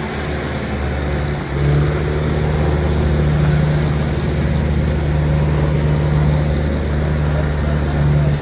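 Heavy diesel engine of a tractor or truck running loud and steady under load, with a brief dip about a second and a half in before it picks up again.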